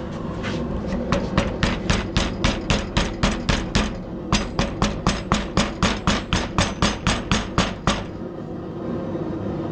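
A baton, used instead of a hammer so as not to deform the metal, striking a freshly twisted hot-forged steel hook to straighten it: a fast, even run of sharp blows, about four a second, with a short break about halfway through, ending about two seconds before the end.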